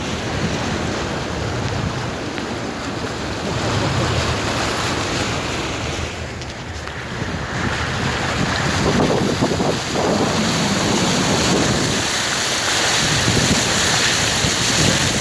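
Car moving through a flooded street, water sloshing and rushing around the tyres, with wind noise on the microphone. It grows louder after about 8 seconds.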